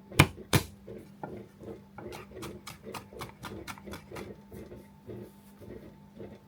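Knife chopping onion on a cutting board: two sharp knocks, then quick, even strokes at about four a second.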